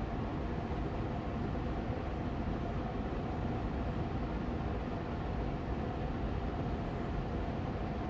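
Austin Air Allergy Machine air purifier fan running steadily on medium speed: an even rushing of air with a faint steady hum in it.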